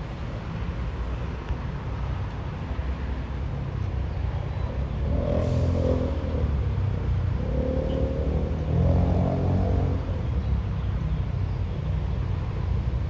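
Diesel express train pulling out of the station and coming closer, a steady low engine rumble that swells twice as the engines work harder, about five seconds in and again about eight to ten seconds in.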